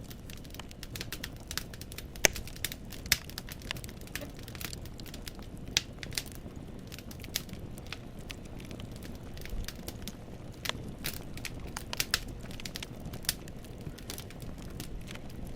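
Wood fire in a fireplace crackling: burning logs give off irregular sharp pops and snaps over a low steady rumble. The loudest pops come about two and three seconds in.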